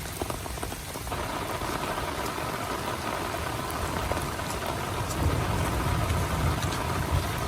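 Heavy rain falling steadily on a tent. About a second in the rain sound thickens, and a low rumble builds from about five seconds in.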